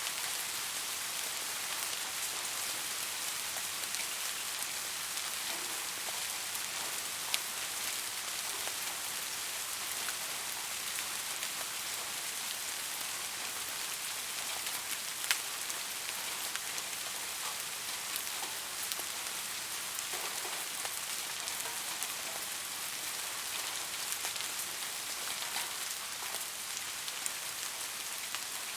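Steady rain falling: an even hiss with scattered individual drops ticking, a couple of them sharper and louder, about seven and fifteen seconds in.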